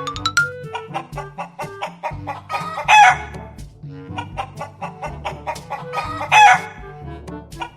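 A chicken squawking loudly twice, the two calls alike and about three and a half seconds apart, over upbeat rhythmic background music.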